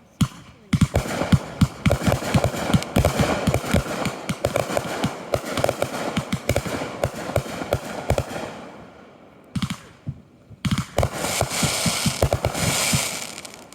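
Fireworks going off in a dense, rapid crackle of many sharp pops, lasting about eight seconds, then a short pause and a second run of crackling pops near the end.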